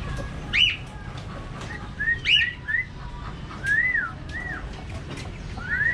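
Tame budgerigar whistling a run of short notes that each rise and fall, with two louder, higher-swooping notes among them.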